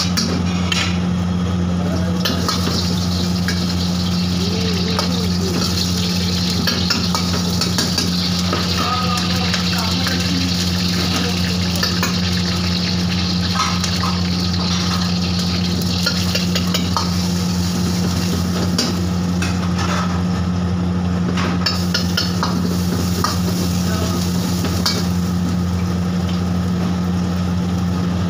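Hot oil sizzling in a large iron wok as dried red chillies and chopped garlic fry, with a metal ladle stirring and clinking against the wok. A steady low hum runs underneath.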